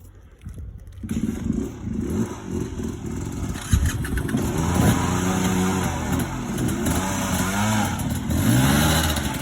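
Dirt bike engine running and being revved, its pitch rising and falling repeatedly with the throttle. It comes in suddenly about a second in.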